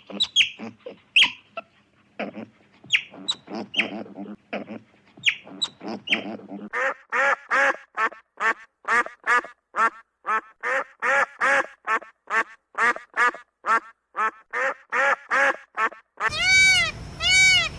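Ducks quacking: scattered short calls at first, then from about seven seconds in a fast, even run of quacks, about three a second. Near the end it cuts to a goat bleating in long, wavering calls.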